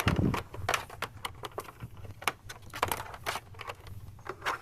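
Irregular clicking and tapping over a faint low hum.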